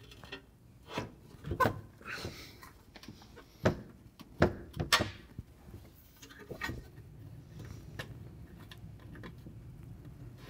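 Metal engine under tray being pushed up and fitted against a car's underbody: a handful of sharp knocks and clunks as the panel bumps into place, mostly in the first five seconds, then a low steady hum.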